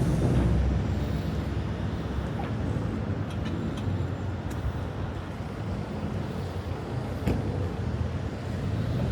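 City road traffic: passing cars with a low engine hum, loudest about half a second in. A few faint sharp clicks sound around the middle and once more near the end.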